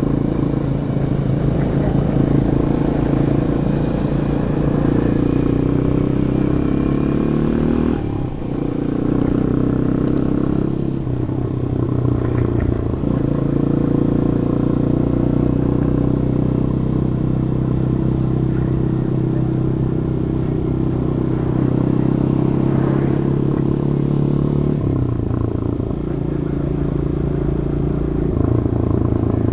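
Demak DTM 150 motorcycle engine through its stock exhaust, pulling through traffic. The pitch rises under acceleration in the first quarter and drops at a gear change about eight seconds in. A few more shifts follow, then a long stretch of steady cruising, and the revs ease back near the end.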